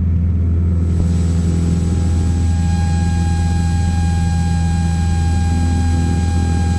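Cessna 172's engine and propeller droning steadily in flight as heard in the cockpit, with a thin steady whine above the drone from about a second in.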